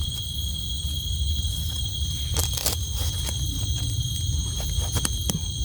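Steady, high-pitched trilling of night insects with no breaks, over a low rumble. A few sharp clicks of handling or stepping in dry leaves come about halfway through and again near the end.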